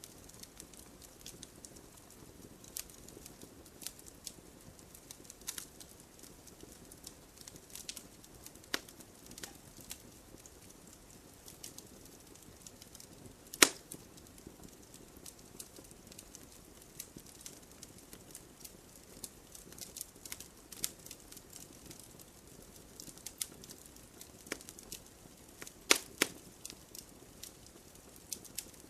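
Wood campfire crackling: a soft steady hiss under scattered snaps and pops, with one loud pop about halfway through and two more close together near the end.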